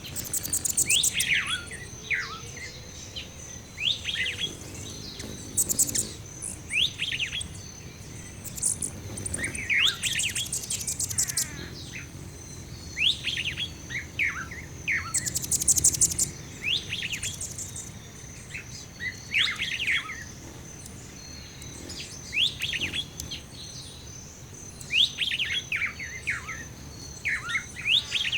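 Birds chirping and calling: many short down-slurred chirps, with repeated bursts of very high, rapid trills over a steady high-pitched tone.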